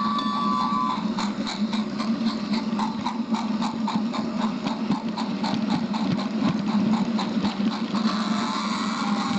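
A small train running along its track: a steady hum with regular clicking about four times a second. A steady whistle-like tone cuts off about a second in, and another tone starts near the end.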